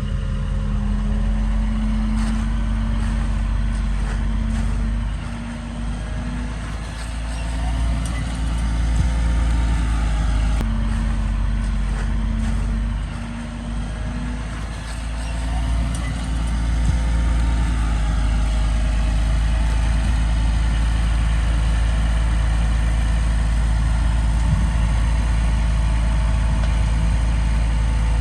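Heavy diesel engine of earthmoving machinery running loudly, with a strong steady low hum and its pitch rising and falling a few times as the engine speed changes.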